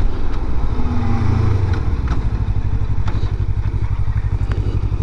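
Suzuki GW250's parallel-twin engine running at low revs, its exhaust pulses steady and even, with a few faint clicks.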